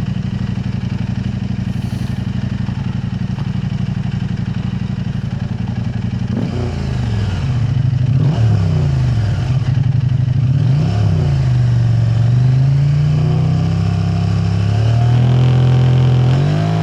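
KTM 890 Adventure R parallel-twin engine through an Arrow Race-Tech aftermarket exhaust, idling steadily, then revved up and down several times from about six seconds in, held at higher revs for a few seconds and revved once more near the end.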